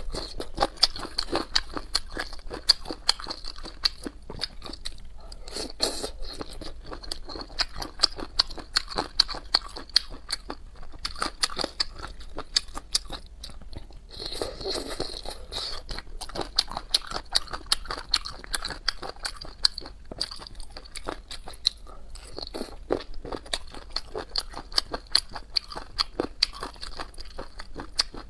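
Chewing and crunching of spiced chicken feet, a dense run of crisp crunches.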